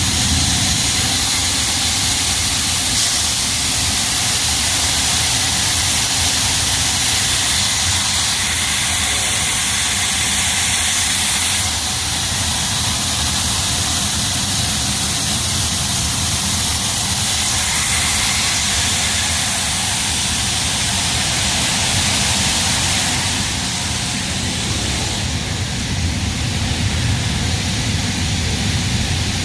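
Heavy farm machinery engine running steadily under a loud, constant hiss, its character shifting abruptly a couple of times.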